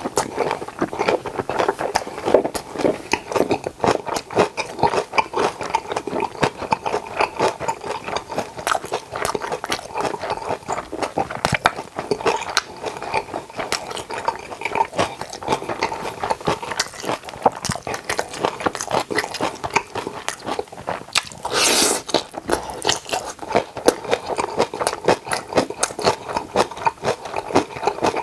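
Close-miked chewing and crunching of kimjang kimchi (salted napa cabbage kimchi) with bossam: a dense, irregular run of wet crunches and bites. About three-quarters of the way through there is a brief rush of noise.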